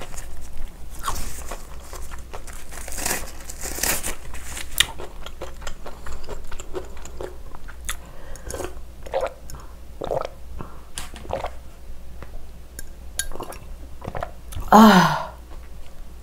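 Close-miked eating sounds: crunchy biting and chewing of bacon, a stretch of sharp crunches and clicks. About halfway through she swallows gulps of calamansi juice, and near the end lets out a short sigh, 'ah'.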